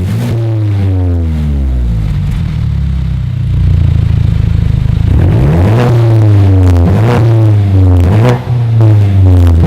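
Mercedes-Benz C250 coupe with an aftermarket Armytrix exhaust, its engine rumbling and growing louder a few seconds in, then revved in quick blips about three times, mixed with electronic music.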